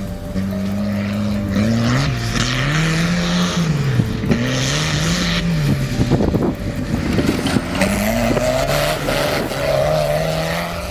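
A tractor engine revving up and down several times, its pitch climbing and dropping, with stretches of a hissing, scrubbing noise over it.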